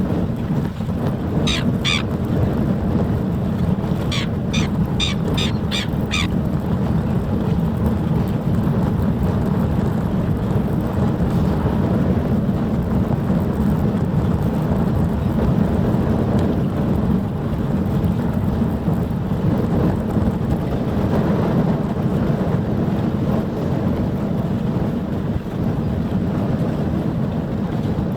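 Steady low rumble of wind buffeting the microphone. Over it come a few short, sharp bird calls: two about a second and a half in, then a quick run of about six between four and six seconds in.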